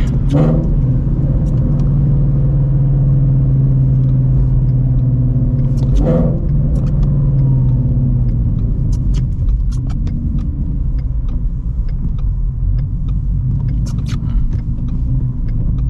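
A modded 2016 Shelby GT350's 5.2L Voodoo flat-plane-crank V8, with long-tube headers, X-pipe and Borla catback, running with a deep steady rumble at light throttle in traffic. It eases off somewhat about halfway through. Scattered sharp ticks can be heard over it in the second half.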